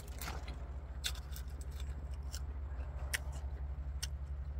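Close-up crunching and chewing of raw leafy vegetables and herbs: scattered crisp clicks and crunches, over a steady low hum.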